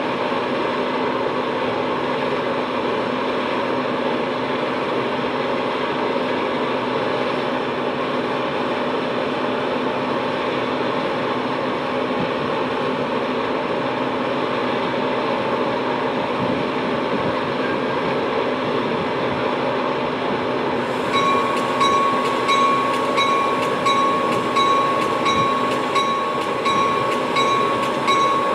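Metra bilevel commuter train standing at the platform with a steady drone of idling equipment. About two-thirds of the way through, a repeating electronic warning tone starts, pulsing about once a second: the door-closing alert as the coach doors shut before departure.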